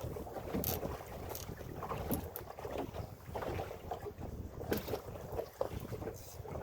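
Wind buffeting the microphone aboard a small boat as a steady low rumble, with a few irregular short slaps of water against the hull.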